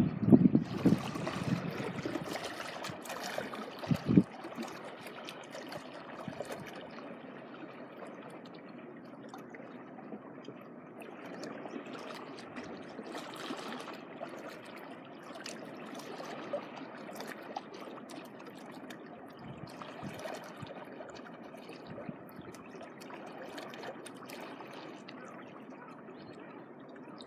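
Sea water washing and trickling at the shoreline in a steady wash, with a few low bumps in the first few seconds.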